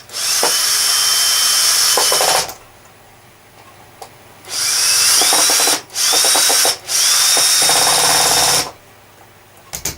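Electric drill-driver run in four loud bursts, each spinning up to a steady high whine: one of about two seconds at the start, then three shorter ones close together in the second half.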